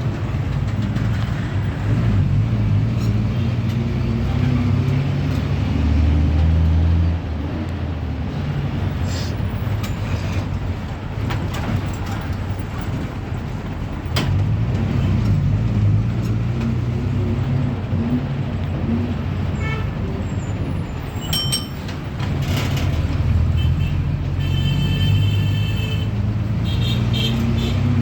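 Ashok Leyland JNNURM city bus's diesel engine running under way, heard from on board, pulling harder and easing off several times as the bus drives. A short high-pitched tone sounds near the end.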